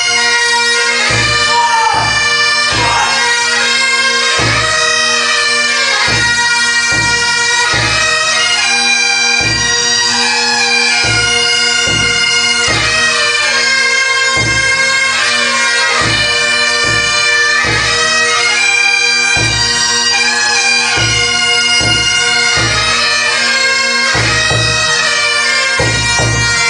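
Bagpipes playing a tune over their steady drones, with a regular low beat about once a second under it.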